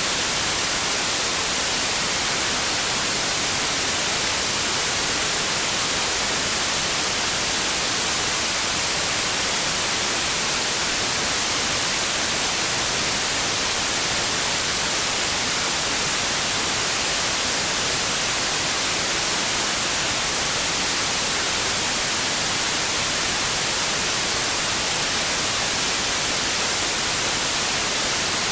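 Steady white noise: an even, unchanging hiss strongest in the high frequencies.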